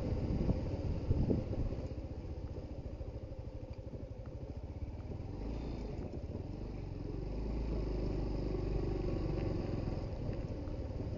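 Suzuki GD110HU motorcycle's small single-cylinder four-stroke engine running steadily as the bike is ridden off-road, with a few clattering knocks in the first second or two. The engine gets a little louder from about seven seconds in.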